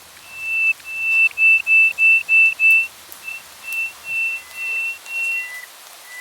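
A bird singing clear whistled notes at one steady pitch. It gives a fast run of about eight short, loud notes in the first three seconds, then softer, more widely spaced notes, with a few lower notes near the end.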